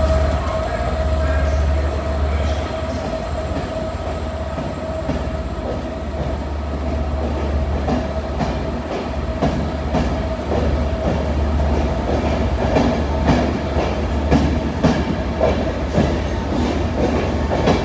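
Class 67 diesel-electric locomotive's two-stroke V12 running with a deep steady rumble and a thin whine. From about halfway through, wheels click over rail joints as the train rolls.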